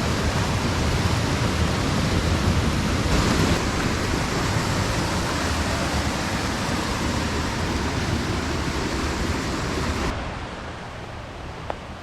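Steady rush of a river's flowing water, a loud even hiss with a low rumble beneath, which drops noticeably quieter about ten seconds in. A single short click sounds near the end.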